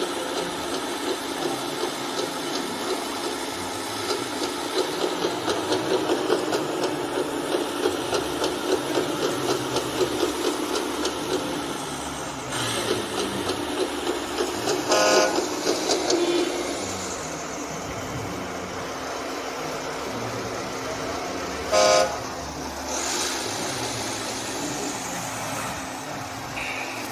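A vehicle engine running with a rapid pulsing, easing off after about twelve seconds, and a horn sounding twice: a longer toot about fifteen seconds in and a short one about twenty-two seconds in.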